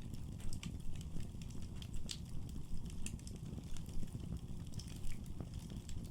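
Wood fire in a fireplace crackling: irregular sharp pops and snaps, several a second, over a steady low rumble of flames.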